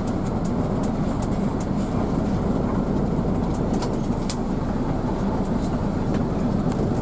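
Cabin noise of a moving Hino AK diesel bus: steady engine and road rumble with scattered light clicks and rattles.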